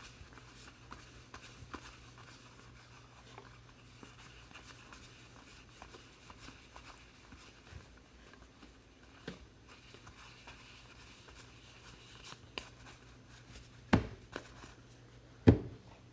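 Trading card packs and cards being handled on a table: faint rustling and small clicks, with two louder knocks near the end.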